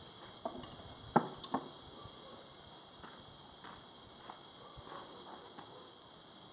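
Crickets chirping steadily, with a few sharp knocks about a second in.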